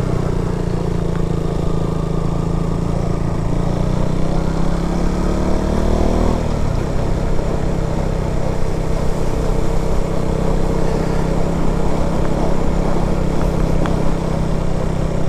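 KTM Duke 200's single-cylinder engine running under way, its revs climbing steadily for a few seconds, then dropping sharply about six seconds in and running steady, over a continuous rush of wind.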